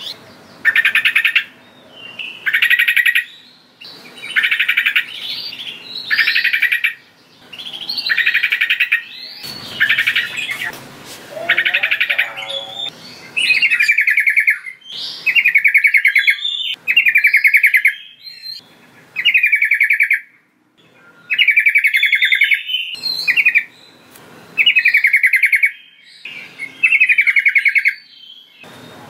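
Sooty-headed bulbul singing: short phrases of about a second, each a quick run of notes, repeated roughly every two seconds.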